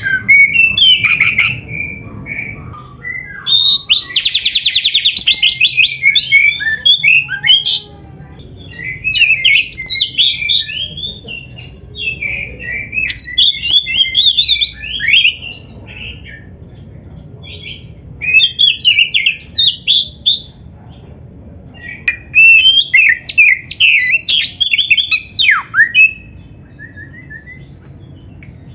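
Oriental magpie-robin (kacer) singing a loud, varied song full of mimicked phrases ('full isian'). It comes in bouts of a few seconds separated by short pauses, with a rapid buzzy trill about four seconds in.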